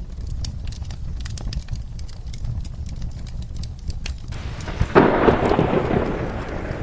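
Crackling fire: scattered sharp pops over a low rumble. About five seconds in, a loud clap of thunder breaks in, with heavy rain hissing after it.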